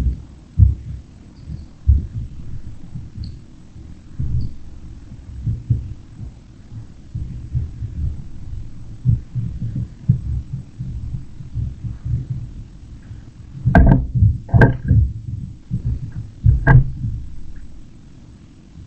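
Birds at a feeder, heard close to the microphone: irregular low thumps throughout, with three sharp knocks in the last third. A few faint, brief high chirps come in the first few seconds.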